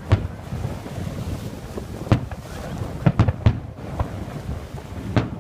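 Fireworks display by Hermanos Ferrández exploding in a string of sharp bangs: one just after the start, one about two seconds in, a quick cluster around three seconds in, and another near the end, over a steady low rumble.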